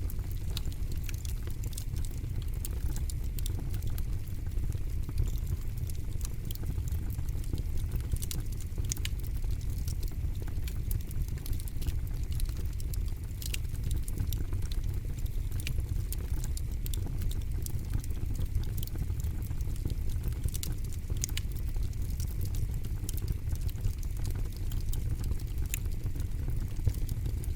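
Campfire crackling steadily: many small sharp pops and snaps at irregular intervals over a low, steady rumble.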